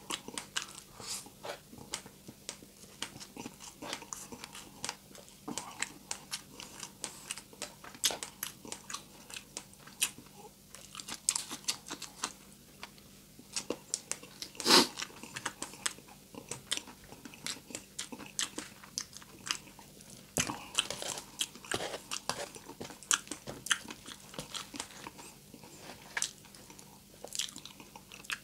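Close-up chewing and crunching of crispy deep-fried pork, with many sharp, irregular crackles of brittle crackling between bites. One bite about halfway through is much louder than the rest.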